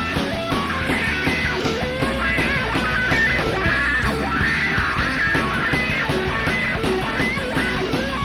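Live rock band recording with drums, bass and electric guitar playing an instrumental stretch. A lead guitar line bends in pitch above the rest.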